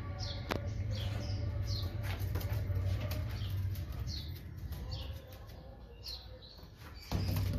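Birds chirping: short high calls that fall in pitch, a few each second, over a steady low rumble. There is a brief louder rustle near the end.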